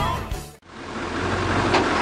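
Music cuts off about half a second in, then the exhaust of a 1999 Ford Powerstroke 7.3-litre turbo-diesel V8 truck fades in, running steadily and growing louder.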